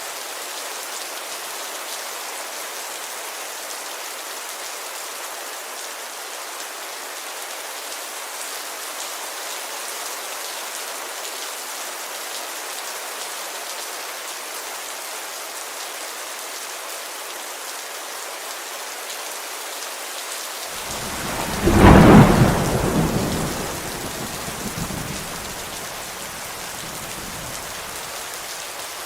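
Steady heavy rain falling on a window, an even hiss. About twenty-one seconds in, a loud thunderclap breaks and rumbles off over the next few seconds.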